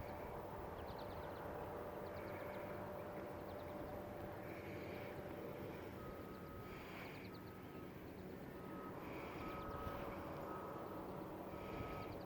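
Birds chirping in short repeated calls over a steady hum of distant traffic. About halfway in, a vehicle's reversing beeper starts up, beeping at an even rate.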